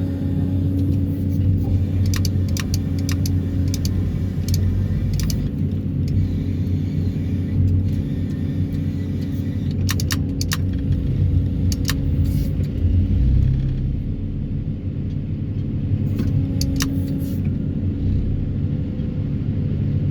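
Excavator diesel engine running steadily, with scattered sharp metallic clicks and clanks as the steel sheet piles are handled and stacked.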